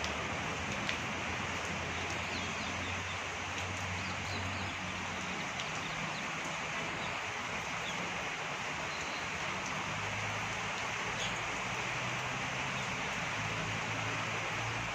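Parrots giving a few brief, faint chirps now and then over a steady hiss.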